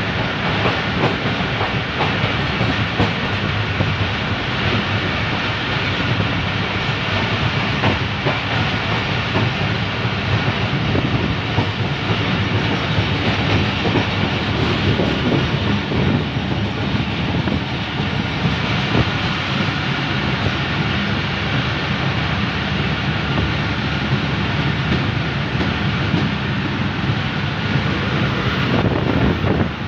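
Passenger train in motion, heard from on board at an open coach doorway: a steady rumble and rush of wheels on the rails, with frequent clicking of the wheels over the track.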